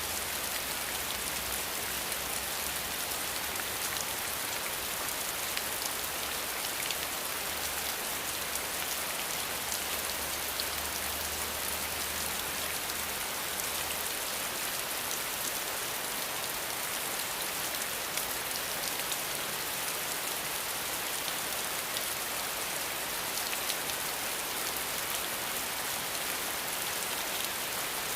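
Steady rain falling, an even hiss with many fine drop patters. A faint low hum underneath stops about halfway through.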